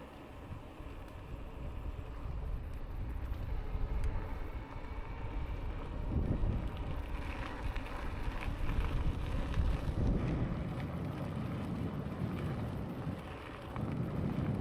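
Wind buffeting the microphone and tyre rumble from a Lankeleisi X2000 e-bike on the move, growing louder after a couple of seconds and easing briefly near the end.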